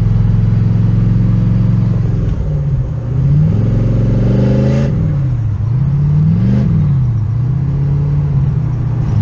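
Twin-turbo Ford Mustang GT's V8 running while driving: a steady drone, then the revs climb twice, about two and five seconds in, each time falling back before it settles to an even cruise.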